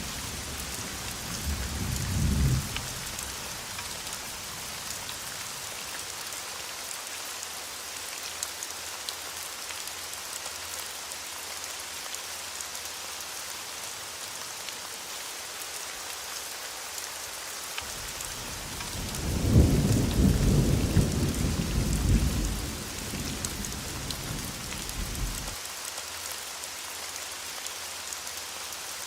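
Steady rain hissing throughout, with thunder: a low rumble dying away in the first couple of seconds, then a louder roll of thunder starting about two-thirds of the way in that stops abruptly some six seconds later.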